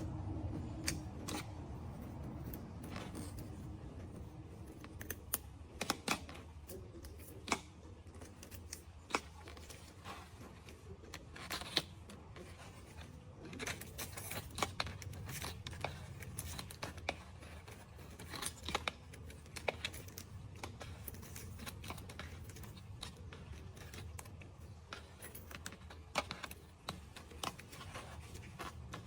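Irregular small clicks and ticks, a few every second, over a low steady hum.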